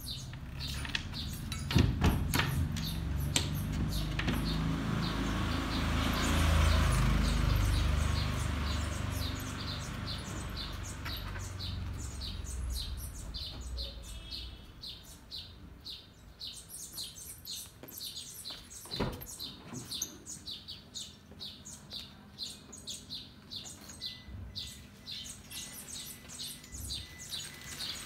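A bird chirping over and over, a few short chirps a second. A low rumble swells in the first few seconds and fades away by about halfway, and there are two sharp knocks, one about two seconds in and one about two-thirds of the way through.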